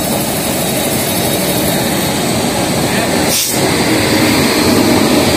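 Steady, loud running noise of a train moving past a WAP-5 electric locomotive at close range, with one short click about three and a half seconds in.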